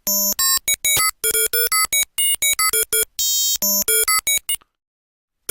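Sylenth synthesizer playing a tri-saw wave through Ableton's Saturator in Waveshaper mode: a fast run of short, choppy electronic bleeps at jumping pitches, harsh and buzzy with distorted high overtones, a computer-like sound. It cuts off sharply about four and a half seconds in.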